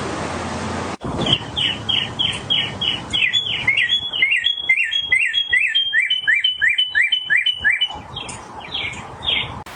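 A songbird singing a long run of quick, repeated slurred chirps, about three to four notes a second, with a few slower notes near the end. For the first second there is only a steady hiss, which cuts off abruptly before the song begins.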